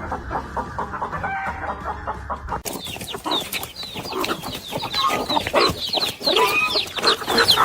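Birds clucking and calling in quick succession, many overlapping calls. About two and a half seconds in, the sound changes abruptly to a brighter, denser run of quick, high, falling chirps.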